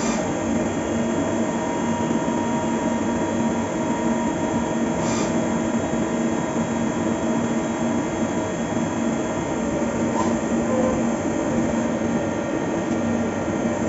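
Fagima Jazz M 5-axis CNC milling machine running a cut: a steady mechanical drone with a held hum, and faint ticks about every five seconds.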